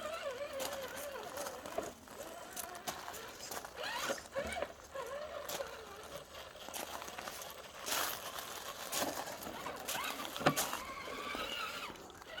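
RC rock crawler's 55-turn brushed electric motor and gearbox whining, the pitch wavering up and down with the throttle as it crawls slowly over rocks, with scattered clicks and knocks of the tyres and chassis against the rock.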